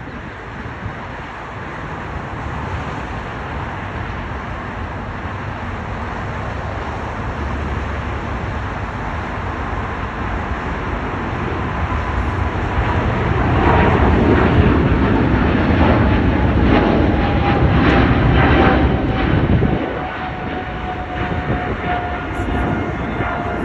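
Jet airliner engines passing close by. The jet noise builds and is loudest about two-thirds of the way through, then eases. A whine falls steadily in pitch as the aircraft goes past.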